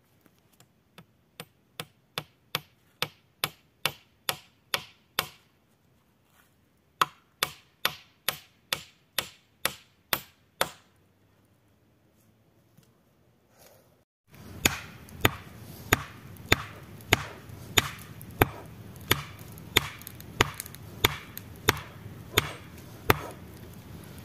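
Wood being chopped with a hand tool in quick, even strokes, about three a second, in two runs with pauses between. About two-thirds of the way in a steady hiss comes up underneath, and the chopping strokes carry on a little slower.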